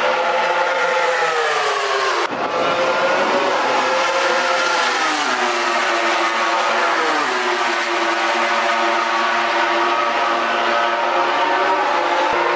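MotoGP race motorcycle's four-cylinder engine at high revs, its pitch sliding down as the bike slows. About two seconds in the sound breaks off suddenly, then the engine goes on, its pitch rising and falling with the throttle.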